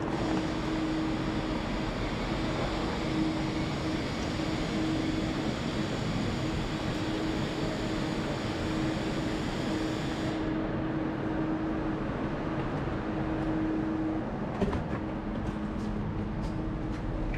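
Passenger train running, a steady rumble with a constant low hum that shifts to a lower pitch about fourteen seconds in. The higher hiss drops away about ten seconds in.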